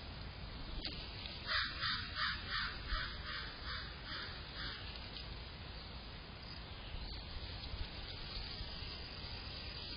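A bird calling in a quick series of about ten harsh calls, about three a second, starting about a second and a half in and stopping about halfway through, over a steady low background rumble.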